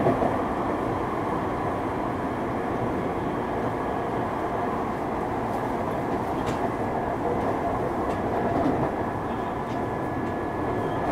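Running sound of a Tokyu 3000 series electric train heard from on board: a steady rumble of wheels on the rails with a faint constant tone above it and a few light clicks, the loudness holding even throughout.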